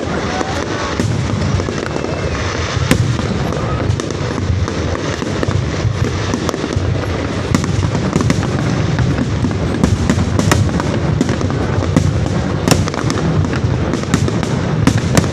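Fireworks going off: a continuous low rumble of distant bursts with many sharp cracks, coming more often in the second half.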